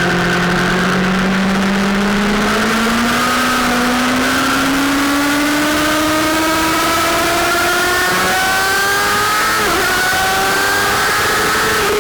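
Sportbike engine pulling hard under acceleration, its pitch rising steadily for about ten seconds before it peaks and starts to drop right at the end.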